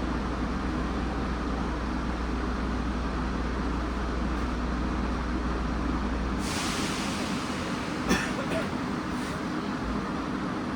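Nagoya subway 2000-series train running, heard from inside the car: a steady rumble, with a low hum that cuts out about six and a half seconds in as a hiss begins, then a sharp knock about a second later.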